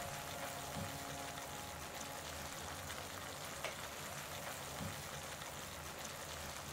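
Tomato-onion masala sizzling gently in a nonstick pan, a steady low crackle, with a few faint ticks.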